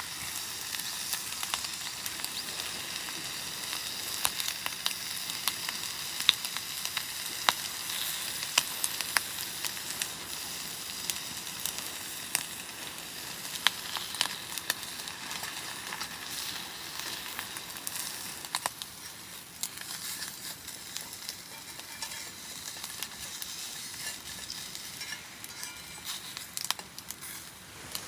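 Wood campfire burning with a steady sizzling hiss and scattered sharp crackles and pops, busiest in the first half.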